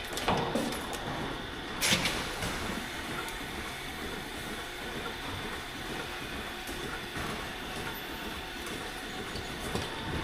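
Milking parlour equipment running steadily, with two sharp knocks in the first two seconds.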